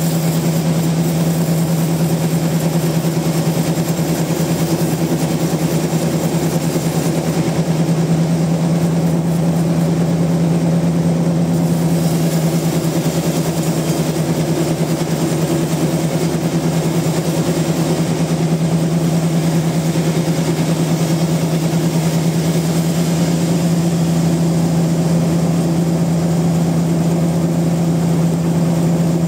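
Large sawmill machinery running steadily, a loud constant hum that does not change in pitch.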